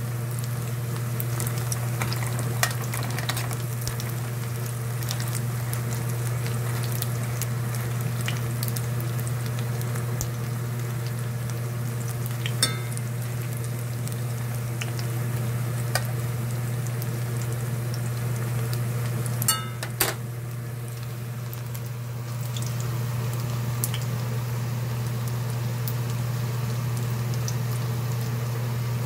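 Battered pork slices for guobaorou sizzling as they fry in oil in a stainless-steel pan, with a few sharp clicks of metal tongs against the pan. A steady low hum runs underneath.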